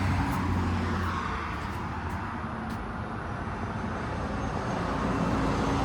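Steady low rumble of road traffic, dipping a little in the middle and swelling again toward the end.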